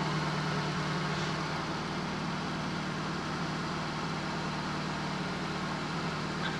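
Fiat Panda 4x4 Sisley's fuel-injected petrol engine idling steadily, still warming up after a cold start below freezing.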